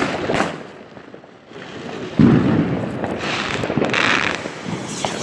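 New Year's Eve fireworks going off: sharp bangs, a loud echoing bang about two seconds in, then high crackling and more cracks.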